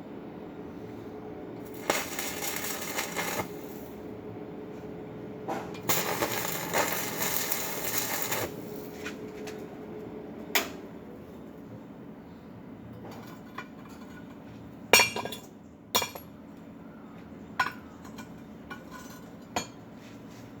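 Two short runs of arc-welding crackle on a steel foundation bolt, the second about twice as long as the first, over a steady machine hum. After that come a handful of sharp, separate metal clinks.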